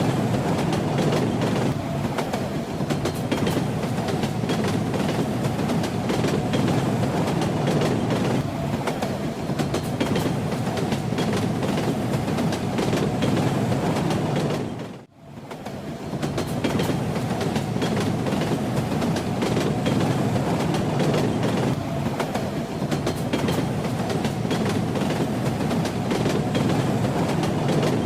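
Train running on the rails: a steady rumble with the clatter of wheels over the rail joints. About halfway through, the sound briefly fades almost to nothing and then comes back.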